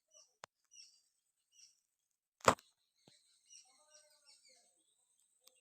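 Faint bird chirps scattered throughout, broken by one sharp, loud click about two and a half seconds in and two fainter clicks.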